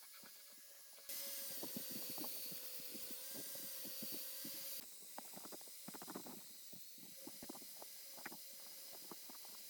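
Scattered light clicks and clinks of hand work on metal parts, with a steady hiss that starts about a second in and cuts off sharply near the five-second mark.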